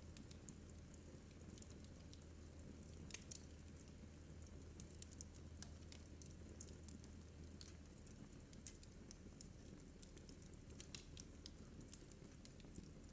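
Wood fire crackling in a fireplace: faint, irregular pops and snaps, several a second, over a low steady hum.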